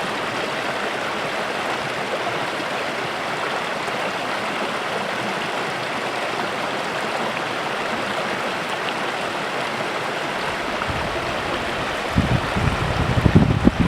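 A small stream flowing and babbling steadily over its bed. About twelve seconds in, gusts of wind start buffeting the microphone with uneven low rumbles.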